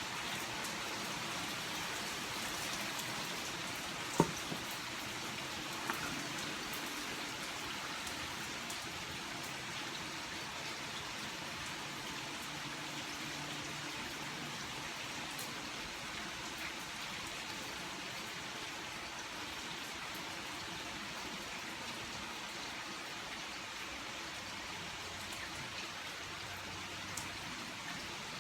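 Steady rain falling, an even hiss throughout. A sharp click cuts through about four seconds in, with a softer one about two seconds later.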